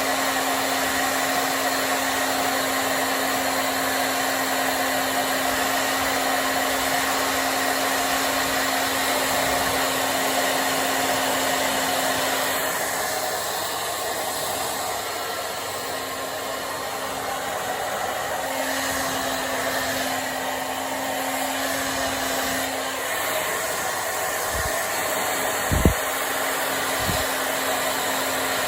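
Hair dryer blowing continuously while drying hair, a steady rush of air over a low motor hum. The sound dulls and shifts partway through, and a brief knock comes near the end.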